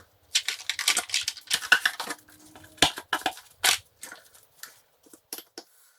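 Irregular metallic clicking and clattering of hand tools and small metal parts, such as screws, being handled, densest and loudest in the first four seconds.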